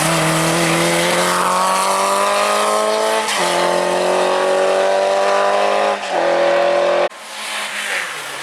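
Hill-climb race car engine accelerating hard, its pitch climbing steadily with two upshifts, about three and six seconds in. About seven seconds in the engine sound drops away abruptly and the rest is quieter.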